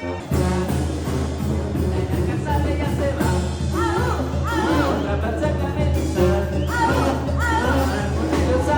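Banda music with a singer: sung phrases over a steady bass line.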